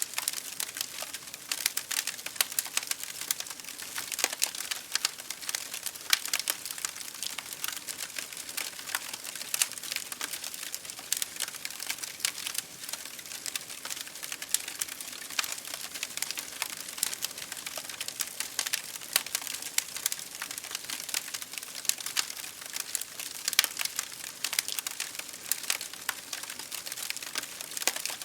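A wood fire crackling in a fireplace, with constant irregular snaps and pops, over rain pattering on a window pane.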